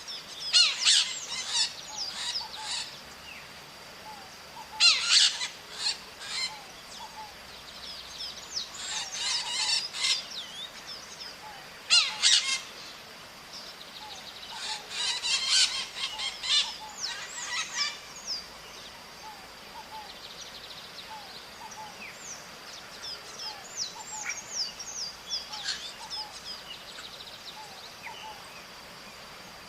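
Maritacas (small Brazilian parrots) calling in clusters of rapid, short, falling calls every few seconds, thinning to scattered single calls in the last third. A thin steady high tone runs underneath.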